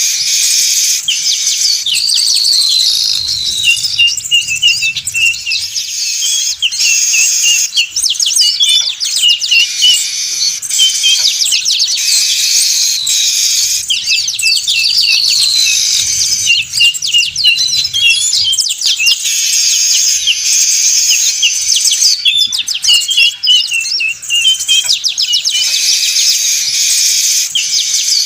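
Noisy chorus of manyar weaver birds chattering: dense rapid chirps, buzzy trills and falling whistled notes. The same stretch seems to come round again about every 13 seconds, as in a looped lure call used for bird trapping.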